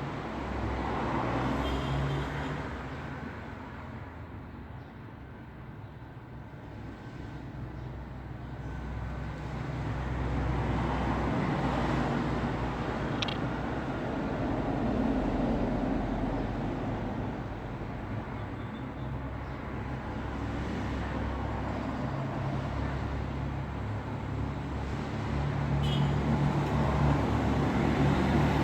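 Road traffic noise: cars and other vehicles passing, a steady low rush of engines and tyres that swells and fades as they go by, building again near the end.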